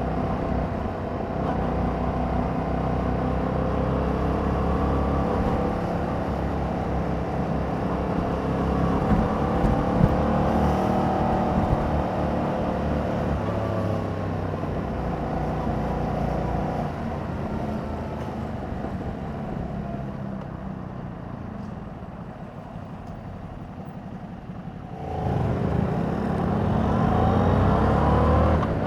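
2021 Yamaha MT-07's parallel-twin engine through its stock exhaust while riding, its pitch rising and falling with the throttle and gear changes. It eases off into a quieter coast for several seconds, then comes back on hard near the end with a sharp rise in level and a climbing pitch as the bike accelerates.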